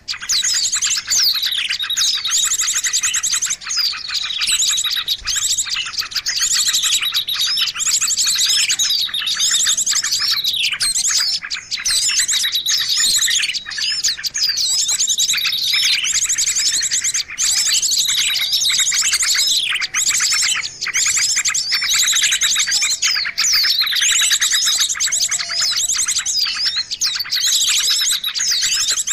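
Bird-lure recording of small songbirds chirping and trilling densely and without pause, with rapid high trills and quick sweeping notes overlapping throughout, played to draw small wild birds in.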